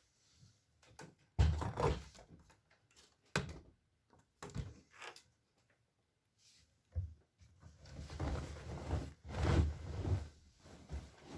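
Irregular clunks and thuds from a Bosch Maxx washing machine, with a sharp knock about a second and a half in, a few single knocks after it, and a longer run of clunks near the end.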